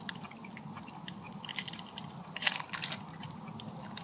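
Quiet, scattered clicks and scrapes of cutlery and food being handled at a meal, with a short cluster of sharper clicks about two and a half seconds in.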